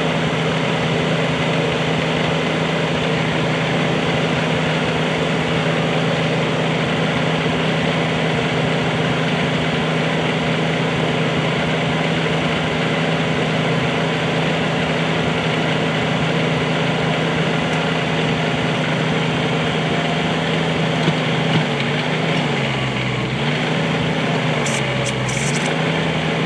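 Bobcat 320 mini excavator's diesel engine running steadily; near the end its pitch dips twice and recovers, with a few light clicks.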